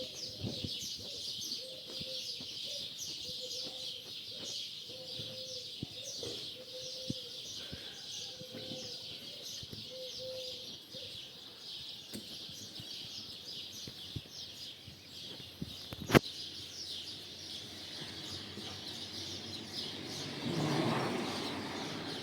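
A large gathering of starlings chattering and whistling in a dense, unbroken dawn chorus. A low call repeats evenly through the first half, a single sharp click comes about two-thirds of the way through, and a louder rushing swell rises near the end.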